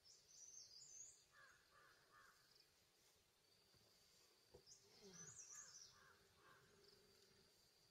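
Faint bird calls over quiet forest ambience: short high chirps near the start and again about five seconds in, and a few runs of short repeated lower calls.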